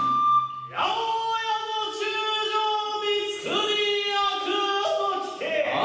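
A kagura performer chanting lines in long, drawn-out sung notes, the traditional intoned delivery of kagura dialogue. A held flute note from the kagura ensemble ends in the first half-second.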